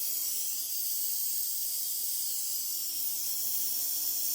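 Steady hiss of compressed air and emulsion coolant spraying from the cutter-cooling nozzle of a transom milling machine, with a faint steady hum of the running cutter spindle underneath.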